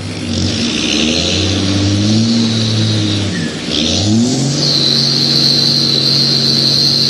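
1993 Dodge Ram 350 pickup's engine revved up and down several times, then held at high revs from about four and a half seconds in for a burnout, with a steady high squeal starting at the same moment.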